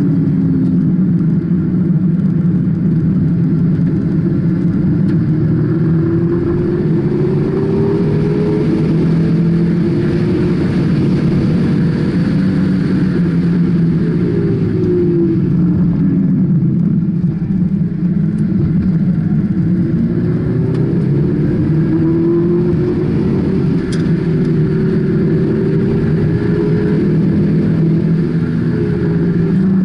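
Car engine heard from inside the cabin while driven at speed, its pitch climbing slowly over several seconds and dropping back twice, about midway and near the end. A steady road rumble runs under it.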